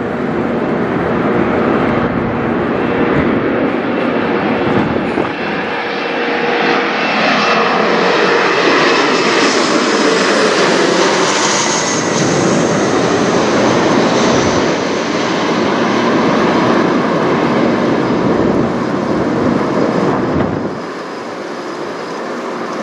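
Mitsubishi CRJ-900LR regional jet's two rear-mounted turbofans passing overhead on approach to land. The jet noise builds, peaks about halfway with a high whine, then falls away as the pitch sinks, dropping off sharply near the end.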